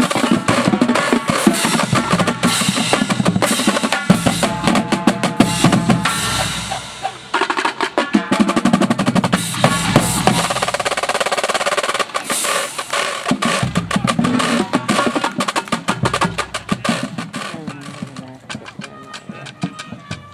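Drum and bugle corps playing: marching snare drums in rapid rolls and runs over bass drums, with brass holding sustained chords.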